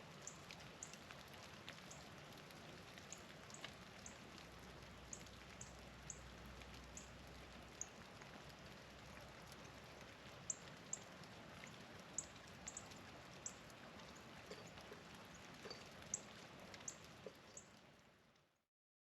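Faint steady patter of falling precipitation, with many short, high, thin chip notes from small birds scattered through it. It fades out near the end.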